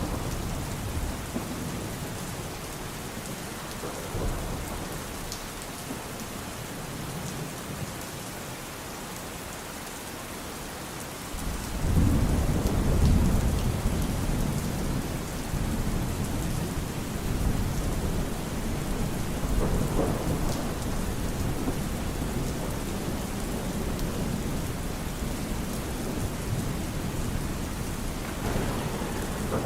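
Steady rain falling, with thunder. A deep rumble of thunder breaks in suddenly about twelve seconds in and keeps rolling, and another peal builds near the end.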